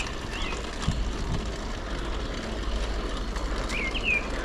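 Steady rushing noise with a constant low rumble, and a few short, quick bird chirps about four seconds in.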